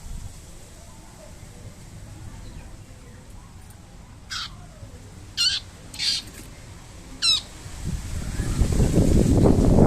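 A bird gives four short, harsh high-pitched calls around the middle, the last one wavering quickly in pitch. Near the end a louder low rushing noise builds up.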